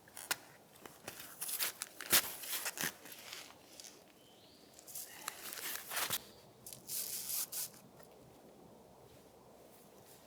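Irregular rustling and crinkling, with a few sharp clicks, in bursts through most of the first eight seconds.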